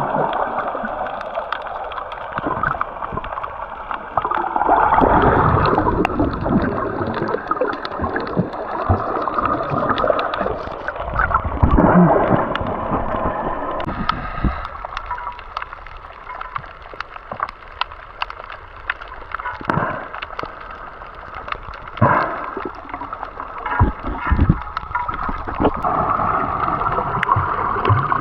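Water gurgling and sloshing, heard muffled underwater while snorkelling, with scattered sharp clicks and knocks.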